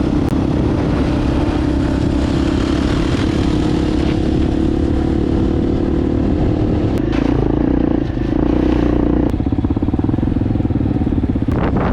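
Enduro motorcycle engine running steadily while riding, its note dipping briefly about eight seconds in.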